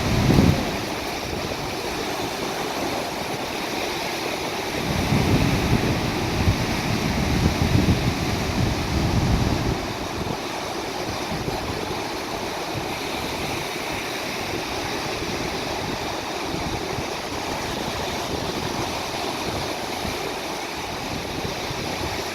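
Steady wash of moving water, with gusts of wind buffeting the microphone at the very start and again from about five to ten seconds in.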